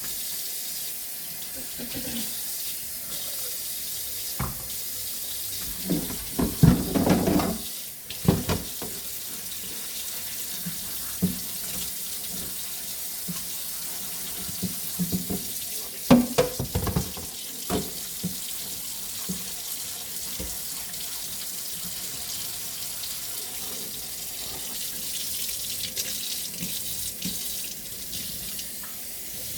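Kitchen tap running steadily into a sink, with knocks and clatter about six to eight seconds in and again around sixteen to eighteen seconds in.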